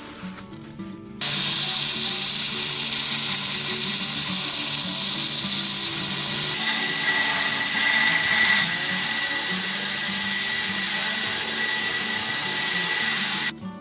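An electric power tool working steel: a loud steady hiss that starts abruptly about a second in, drops slightly about halfway with a faint whine under it, and cuts off suddenly near the end. Background music plays underneath.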